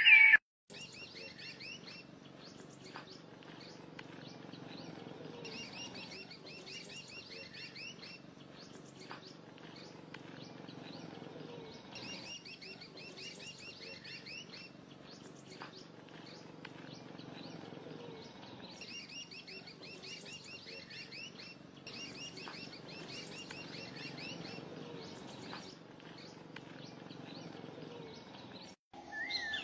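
Small birds chirping in rapid high twittering phrases, a couple of seconds each, that recur every few seconds over a faint steady low background noise.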